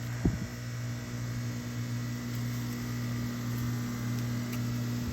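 Outdoor air-conditioner unit running, a steady low hum with a fainter high tone above it. A single brief thump comes about a quarter of a second in.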